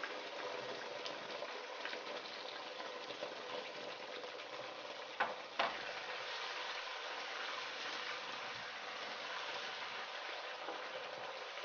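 Ketchup sizzling in hot oil and ginger-garlic paste in a wok, stirred with a wooden spatula. About five seconds in, two sharp knocks as a bowl is set down on a glass tray.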